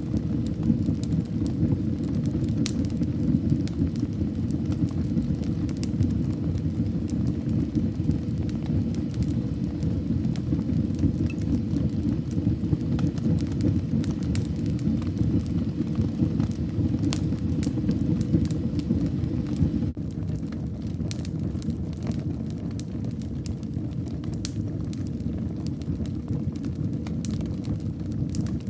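Wood fire burning in a fireplace: a steady low rumble of flames with frequent sharp crackles and pops, turning slightly quieter about twenty seconds in.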